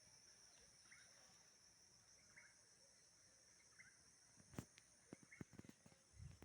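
Faint outdoor ambience: a steady high insect drone, with a short bird chirp repeating about every second and a half. A few sharp clicks and knocks come in the last two seconds.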